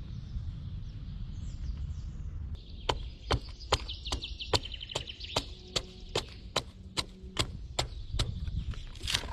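A hand tool striking wood in a quick, even series of about fourteen sharp blows, two to three a second, starting about three seconds in.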